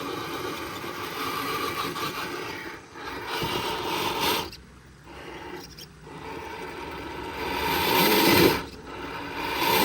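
Radio-controlled truck driving, its electric motor and gears whining in surges as the throttle is worked, with scraping under it; it falls away twice in the middle and is loudest near the end.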